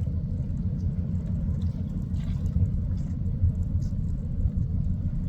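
Steady low rumble of a cargo ship under way at sea, with faint splashes of water now and then, the clearest about two seconds in.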